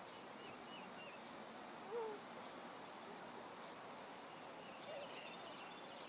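Faint bird calls over a steady outdoor hiss: a few short high chirps in the first second, a brief lower call about two seconds in, and a cluster of chirps near the end.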